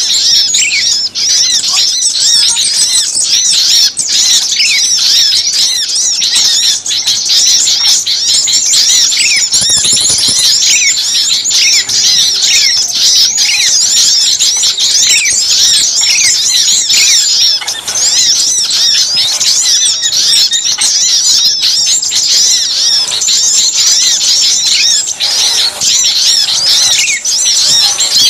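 A loud, continuous clamour of many small birds chirping and calling at once, rapid high chirps overlapping without pause: a mixed small-bird lure recording of agitated, noisy calling.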